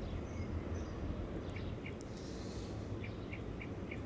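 A small bird chirping over a steady low outdoor rumble. The chirps are short and come in runs of about three a second, with a gap in the middle.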